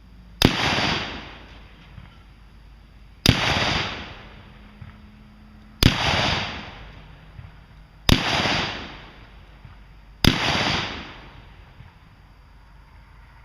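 Five single gunshots fired at a steady pace, about two to three seconds apart, each with a sharp crack followed by a rolling echo that dies away over about a second.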